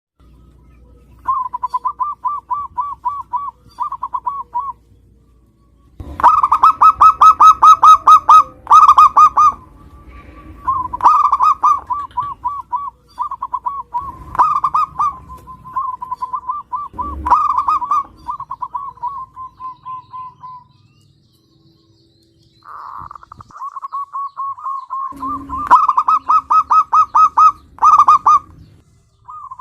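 Zebra dove (perkutut) cooing in several bouts of fast, evenly pulsed notes. The loudest bout comes a few seconds in, and there is a short silence past the middle.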